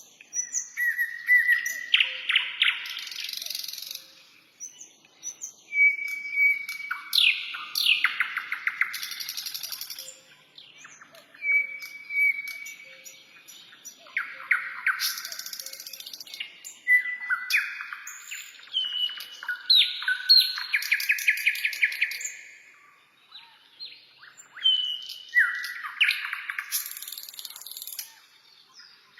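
Songbirds singing in repeated phrases: a clear held whistle, then a rapid trill or falling sweep, with thin high buzzy notes, a new phrase every few seconds.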